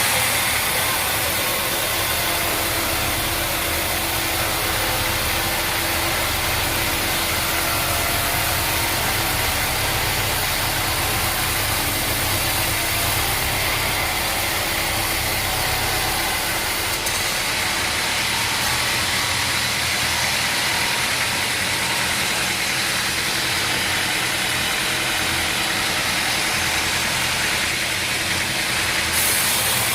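An engine or motor running steadily, with a constant low hum and hiss; the hum shifts slightly about halfway through.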